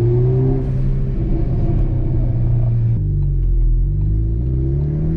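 Ford Focus ST's turbocharged four-cylinder engine through a Borla cat-back exhaust, revving under acceleration: its pitch drops suddenly about three seconds in, then climbs steadily again.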